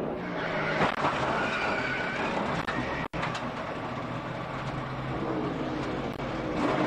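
NASCAR stock cars' V8 engines running at speed, heard through the race broadcast feed, with a momentary cut about three seconds in.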